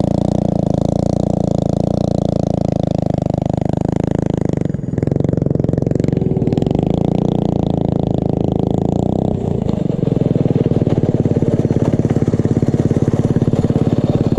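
Small single-cylinder engine of a mini bike or pit bike running steadily at low speed, with a brief dip about five seconds in and a slight change in its note about nine seconds in.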